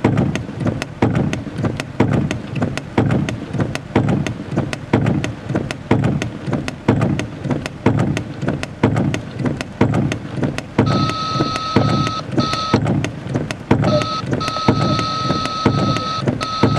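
Heavy rain drumming on a car's roof and windshield, dense uneven patter over a low rumble. About eleven seconds in, a steady electronic beep tone starts and continues, broken by a few short gaps.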